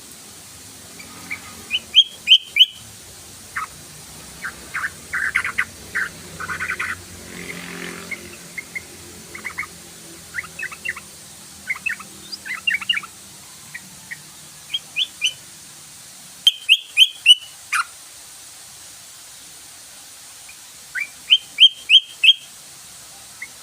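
Yellow-vented bulbul (trucukan) chirping and calling: three bursts of three or four loud, sharp chirps, one about two seconds in, one past the middle and one near the end, with softer scattered chirps between them.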